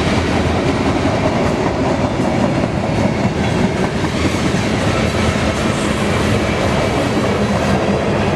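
Loaded coal train cars rolling past at close range: a steady, loud rumble of steel wheels on rail.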